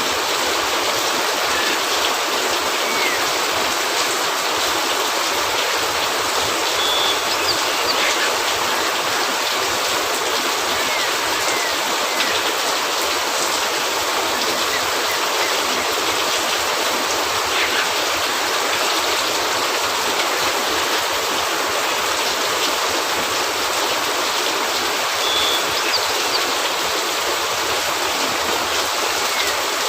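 Steady rain falling: an even, unbroken hiss, with a few faint pops now and then.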